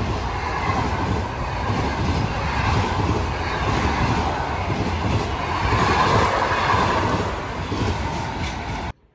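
Passenger train coaches rolling past at close range: a steady rumble of wheels on rails that swells slightly near the end of the passing. The sound cuts off suddenly just before the end.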